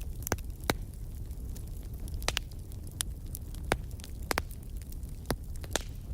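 Wood fire crackling: irregular sharp pops and snaps, a dozen or so, over a steady low rumble.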